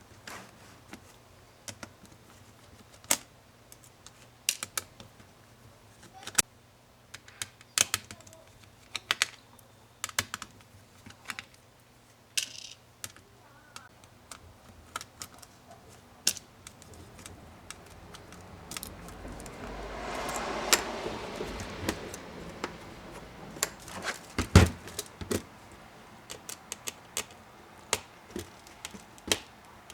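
Scattered sharp clicks and taps of small tools and laptop parts being handled during a Chromebook teardown. About two-thirds of the way through, a scraping rustle builds up and fades, followed by a louder knock.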